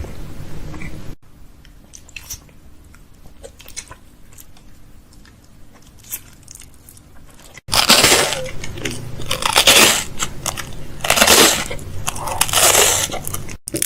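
Close-miked ASMR trigger sounds: soft scattered clicks at first, then, after a sudden cut about eight seconds in, four or five loud swelling strokes of rustling noise.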